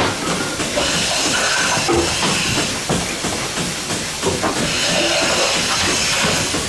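Milking machine in a goat parlour hissing with air, swelling twice, with goats bleating faintly.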